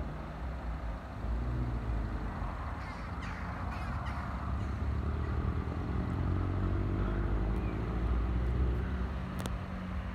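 Diesel multiple unit approaching on the line, its engine a low rumble that grows louder and is strongest about eight to nine seconds in. A bird calls a few times about three seconds in.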